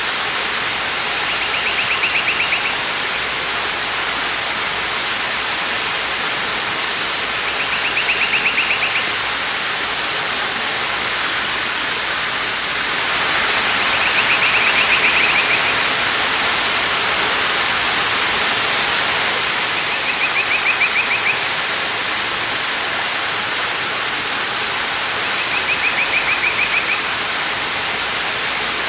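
Waterfall: a steady rush of falling water, a little louder in the middle. Over it a bird gives a short, fast trill five times, about every six seconds.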